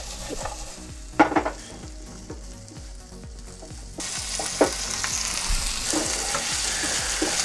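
Chopped onions sizzling as they fry in oil in a frying pan. The sizzle is quieter at first, with a metal clunk about a second in, then at about four seconds it jumps to a louder, hissier sizzle with a few more knocks as the onions are stirred.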